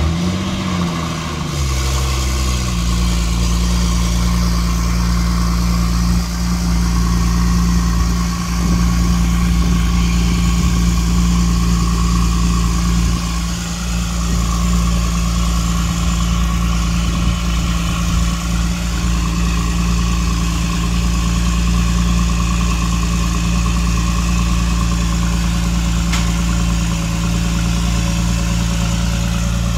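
Porsche 997.2 Turbo's twin-turbo flat-six idling inside an enclosed car-transporter trailer. The engine note rises and falls briefly in the first two seconds, then settles into a steady idle.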